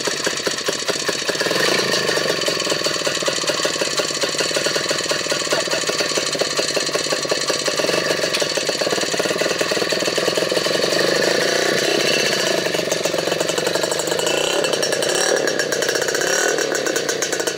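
Custom motorcycle's engine running steadily, its exhaust pulses coming thick and even, with small swells in level.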